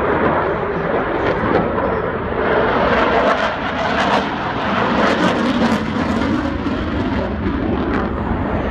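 Jet aircraft engines running loud and steady in a flypast, the noise swelling and easing slightly.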